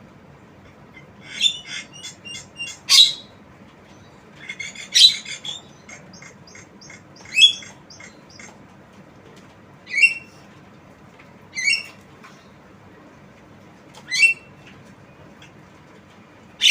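Javan myna (jalak kebo) calling: two runs of rapid, sharp chattering notes in the first six seconds, then single sharp calls about every two to two and a half seconds.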